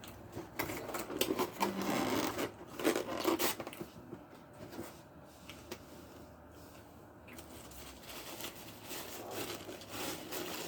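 Crackly crunching and rustling of chicken nachos being eaten and handled, busiest over the first few seconds and picking up again near the end.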